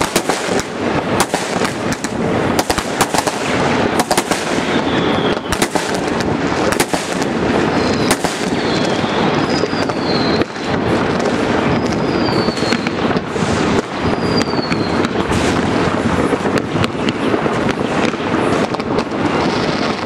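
Many fireworks and firecrackers going off at once across a city: a dense, unbroken crackle of bangs, with several short descending firework whistles partway through.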